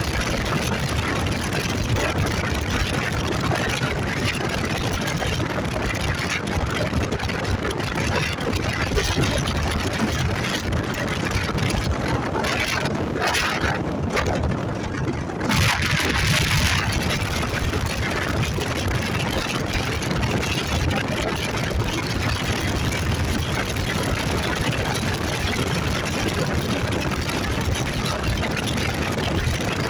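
Motorcycle riding noise: the engine running under steady rushing wind and road noise, with a brief dip and then a short louder surge of hiss about halfway through.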